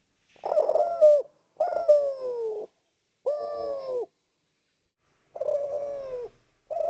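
Spotted dove (derkuku) cooing: a run of short coos, each under a second and falling in pitch, with brief gaps between them, the last cut off at the end.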